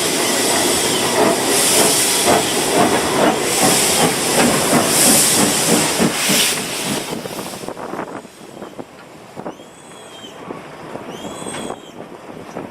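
Steam locomotive hissing with slow, regular puffs of steam for about seven seconds. The sound then drops to quieter train running, with several short squeals of wheels on the rails near the end.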